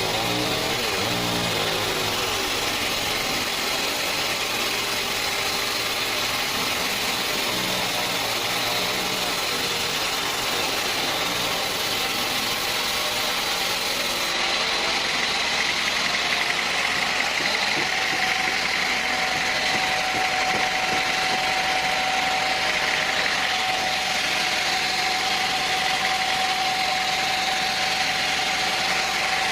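Sawmill machinery engine running steadily at a constant level. A steady whine joins about halfway through.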